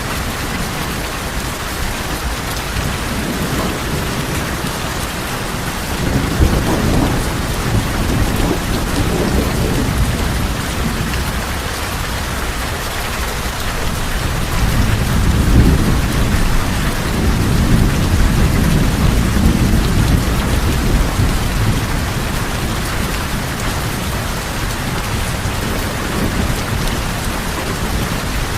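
Rain falling steadily on a tin roof, with two long low rumbles of thunder, the first starting about six seconds in and a longer one from about fourteen seconds.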